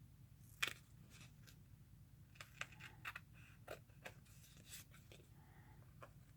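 Faint paper-crafting handling: scattered small clicks and rustles of scissors and paper, with one sharper click just over half a second in and a busier run of clicks in the middle, over a low steady hum.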